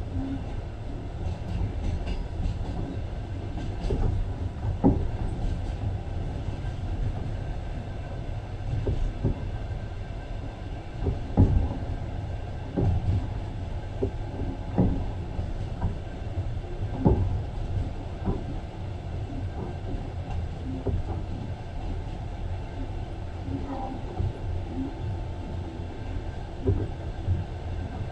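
Passenger train running along the track, heard from inside the carriage: a steady low rumble with irregular knocks of the wheels over the rails.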